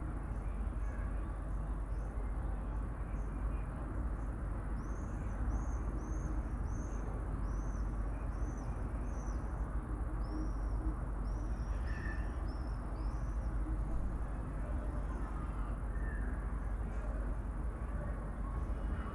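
A bird singing a run of about a dozen short, high, arched notes, roughly two a second, over a steady low background rumble.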